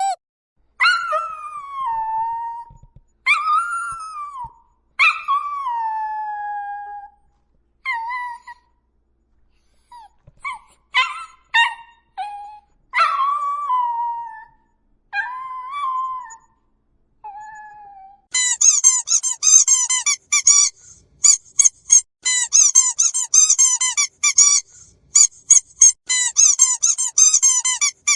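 Puppy howling: a series of pitched howls, the longer ones gliding down in pitch, broken by short yelps. About two-thirds of the way through it gives way to a squeaky dog toy squeezed rapidly over and over in quick high squeaks.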